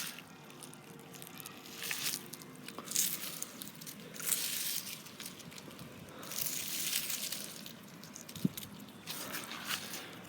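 Irregular crunching and rustling, in bursts of about a second each, several times over.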